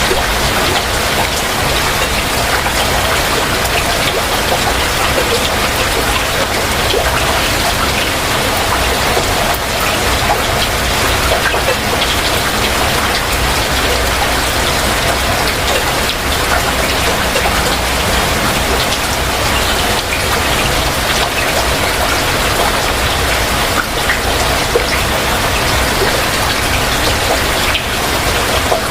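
Heavy rain falling steadily: an even, dense hiss with individual drops striking close by.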